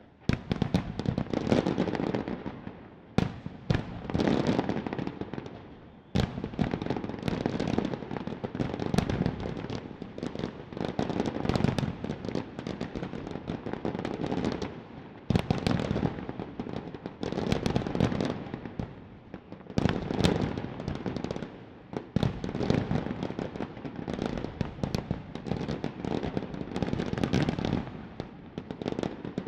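Large fireworks display: continuous dense crackling and popping of aerial shells, in waves, with sharper single booms standing out several times.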